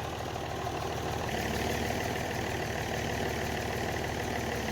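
Tractor engine running steadily; a little over a second in its note shifts slightly and it runs a bit harder.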